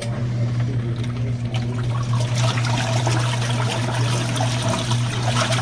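Compact twin-tub washing machine running: a steady motor hum under churning, splashing water. It starts and cuts off abruptly.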